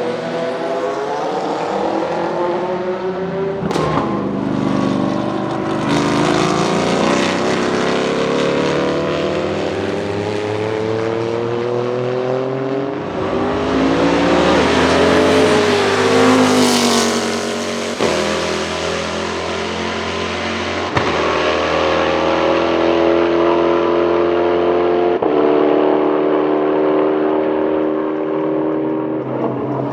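Saleen S7-R GT1's naturally aspirated 7.0-litre V8 racing, pitch climbing through the revs and dropping at each gear change. It comes loudest and brightest as it passes close, a little past the middle.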